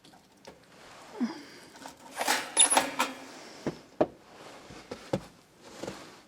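Birdseed rattling as it is scooped and poured into a feeder, loudest around two to three seconds in, followed by several sharp clicks and knocks.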